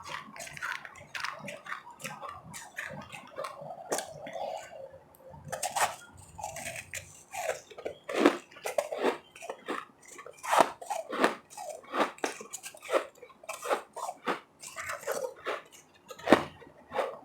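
Close-up crunching and chewing of ice, with sharp irregular bites and crunches that grow louder and denser about halfway through.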